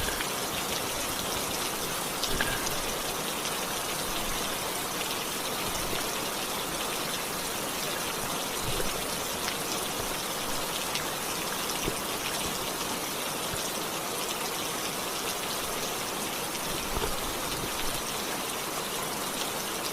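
Steady rain falling, an even hiss of drops with a few faint ticks of drops landing close by.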